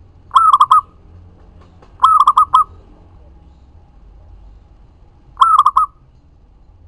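Local zebra dove (perkutut) cooing: three short phrases, each a quick run of four or five notes lasting about half a second, the first just after the start, the second about two seconds in, and the third near the end.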